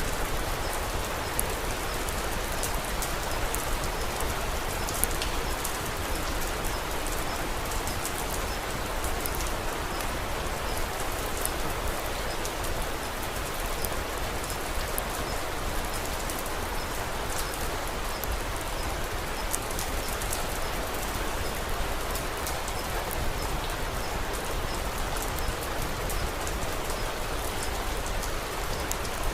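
Steady rain falling, an even hiss with scattered sharp little ticks throughout.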